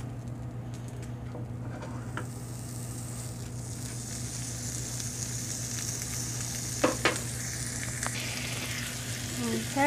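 Rice frying in melted butter in a pan: a steady sizzle that gets a little brighter partway through, with a couple of short knocks about seven seconds in.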